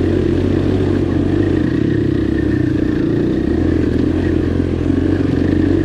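Dirt bike's single-cylinder engine running at steady, low revs.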